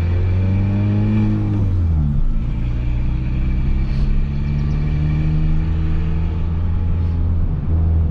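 Peugeot 206 1.4 four-cylinder engine with a straight-pipe exhaust pulling under load while driving. The revs climb, fall away about two seconds in as the driver shifts, then climb again and hold, with another brief dip near the end.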